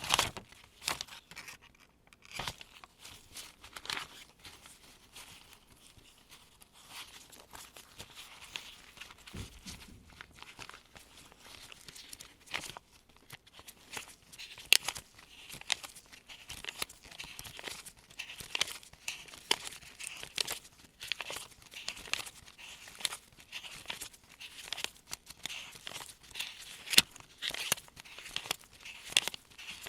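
US one-dollar bills handled with gloved hands, each bill giving a short, crisp paper snap or rustle as it is counted through the stack. The snaps are spaced out at first and come quickly and steadily in the second half.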